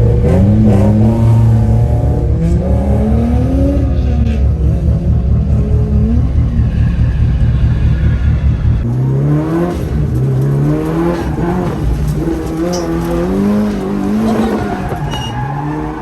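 Car engine revving up and down again and again, as when a car is being drifted. A deep rumble under it drops away about nine seconds in.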